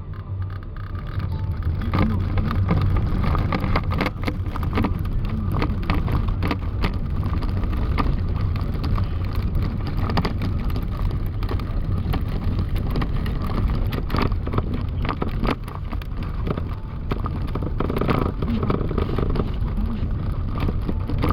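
A motor vehicle running steadily in a snowstorm: a low, even hum with a wash of noise, scattered with many sharp ticks.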